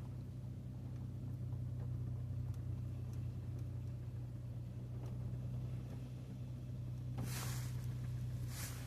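Automatic car wash heard from inside the car: a steady low hum, with two short bursts of hissing spray about seven seconds in and near the end.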